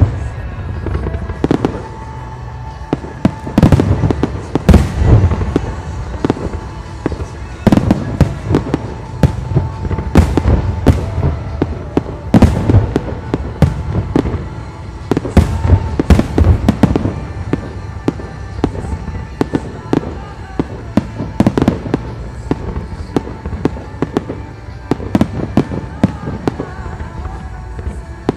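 Professional aerial fireworks display: shells bursting in rapid, irregular succession, many sharp bangs over a low rumble. The heaviest clusters come about 4, 10 to 13, 16 and 21 seconds in.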